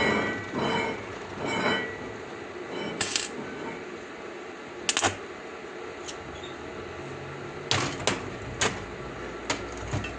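A series of separate sharp metallic knocks and clanks, about eight of them spread irregularly, as pieces of scrap metal are handled and set down.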